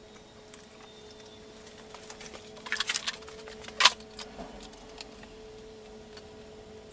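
Small metal objects clinking and rattling in a short flurry, then one sharp click, over a faint steady hum.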